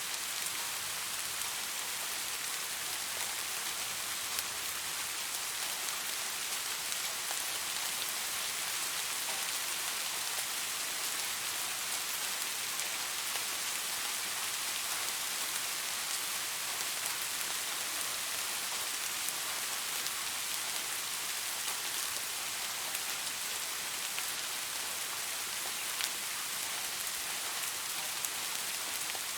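Steady rain falling, an even hiss with the patter of individual drops on surfaces.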